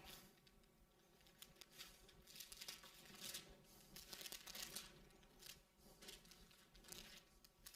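Faint rustling and crinkling of paper in a few short bursts, as pages of a book are turned.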